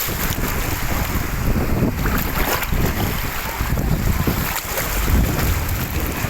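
Wind buffeting the microphone: a loud, uneven low rumble over a steady rushing hiss.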